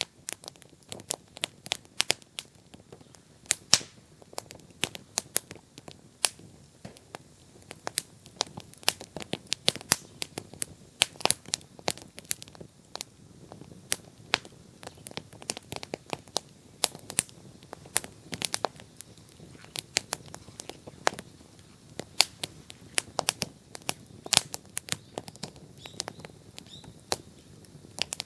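Wood bonfire crackling, with sharp, irregular pops several times a second over a faint low rush of flame.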